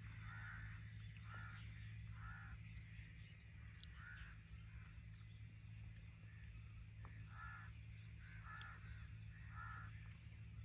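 Faint bird calls: about seven short calls, a second or so apart with a pause midway, over a steady low hum.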